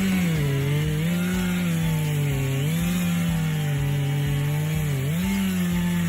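Chainsaw at full throttle, cutting. The engine pitch shoots up at the start, then sags under load and recovers about three times.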